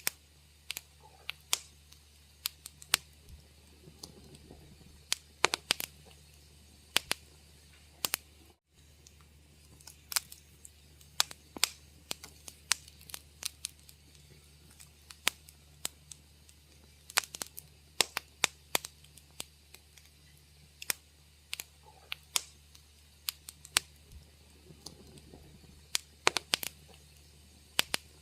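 Wood fire crackling in a fireplace: irregular sharp snaps and pops, several a second at times, over a faint steady low hum.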